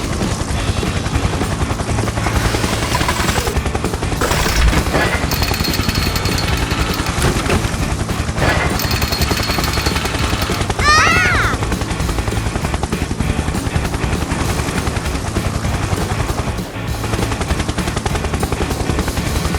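Music over a continuous fast rattle of clicks, with a short rising-and-falling pitched call about eleven seconds in.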